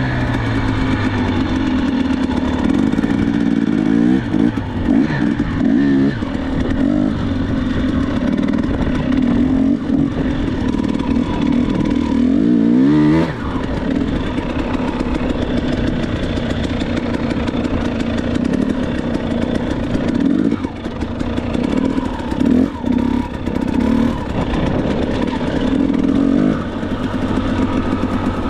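Dirt bike engine running steadily under throttle, its pitch rising and falling several times as the rider works the throttle.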